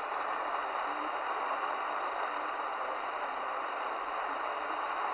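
Steady hiss of static from a Midland Alan 8001 CB radio on an open channel between transmissions, with the band empty.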